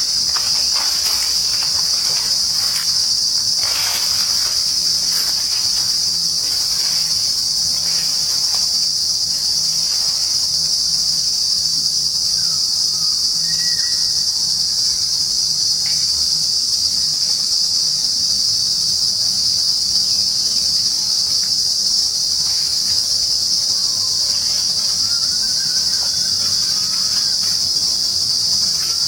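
A dense chorus of insects in trees: one steady, high-pitched shrill drone that never breaks or changes.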